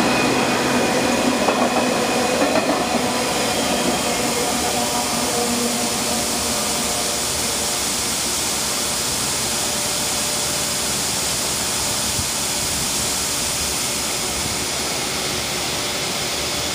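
The last empty intermodal flatcars of a freight train rolling past, wheels running on the rails with faint ringing tones, the sound easing after about four seconds into a steady rush as the train moves off.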